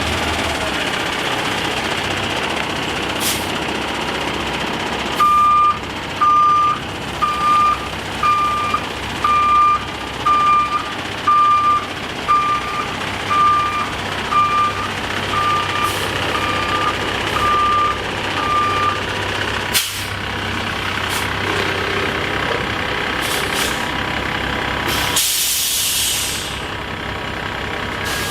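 Kenworth T880 hook truck's backup alarm beeping about once a second for some fifteen beeps while the truck reverses, over the steady running of its diesel engine. A short burst of air hiss sounds near the end.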